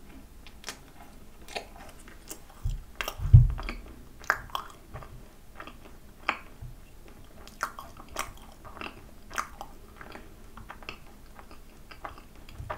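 Close-miked chewing of an injeolmi macaron: scattered soft mouth clicks and smacks. Two dull low thumps come a bit under three and three and a half seconds in, the second the loudest.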